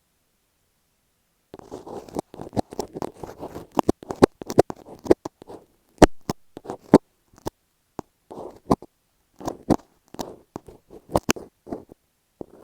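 Fingers tapping and scratching masking tape stuck over an earphone microphone, heard very close: a dense run of sharp taps and crackly rubbing, starting about a second and a half in, with a short pause about two thirds of the way through.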